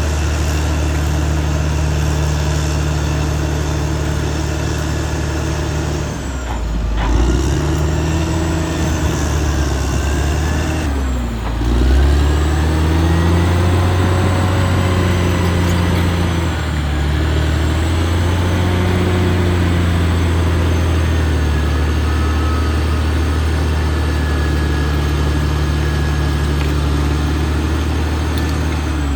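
Caterpillar D6R XL bulldozer's diesel engine running hard under load. Its pitch sags and climbs back about six seconds in and again about eleven seconds in, as the engine lugs and then revs up again.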